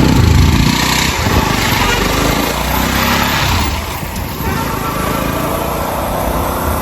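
Motorcycle engine running under a steady rushing noise, the engine strongest in the first second.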